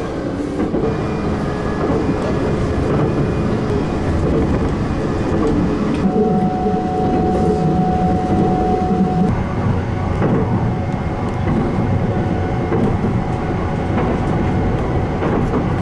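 Train running, heard from inside the passenger car: a steady rumble of wheels on rails, with a few faint ticks and a thin steady whine for a few seconds near the middle.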